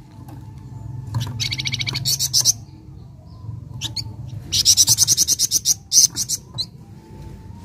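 Flamboyan songbird singing in rapid high trills of quickly repeated notes: one phrase about a second in and a longer one near the middle, with a few short single notes between them, over a steady low hum.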